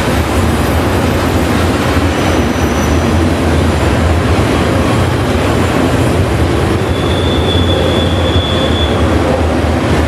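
Freight train rolling past close by: a steady, loud rumble of wheels on rail. Thin, high wheel squeals come in briefly, the clearest about seven seconds in, lasting about two seconds.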